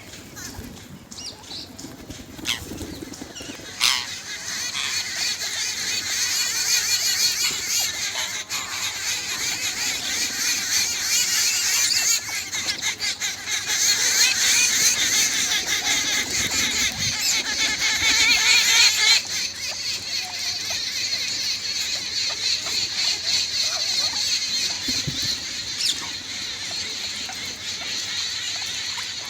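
Parrots chattering, many high calls overlapping into a dense, busy din that grows louder, then drops off suddenly about two-thirds of the way through.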